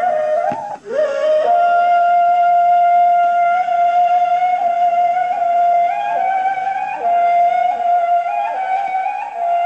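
A ney, the Turkish end-blown cane flute, playing a slow solo melody: a short break for breath about a second in, then a long held note that climbs in small steps toward the end.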